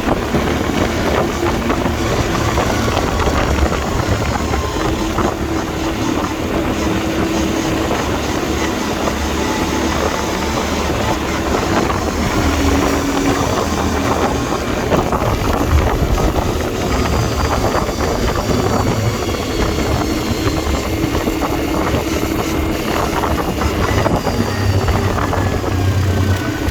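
Quad bike engine running while riding, its pitch shifting a little with speed, with wind buffeting the microphone.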